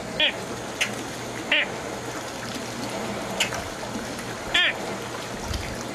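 Short harsh bird calls, three of them a second or more apart, with a few sharp chip-like notes between, over a steady background hiss.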